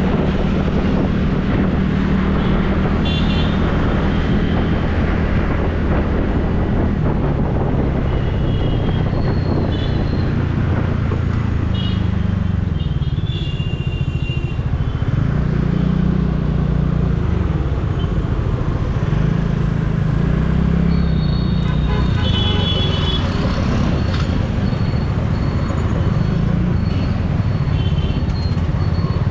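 TVS Ntorq 125 scooter's single-cylinder engine running while riding through city traffic, its note rising and falling with the throttle. Vehicle horns honk several times, with one longer horn blast in the last third.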